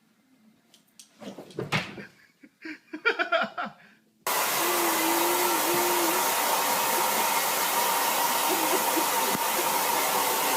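A few knocks and short sounds, then, about four seconds in, a motor-driven blower switches on abruptly: a loud, steady rush of air with a faint steady whine.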